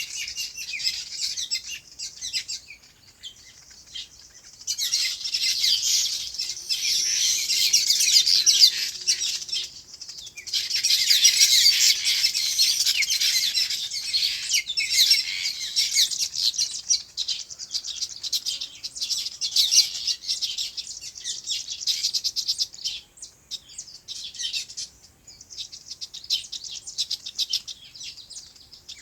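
Many small birds chirping together in dense, overlapping chatter that swells in bursts and drops away in short lulls.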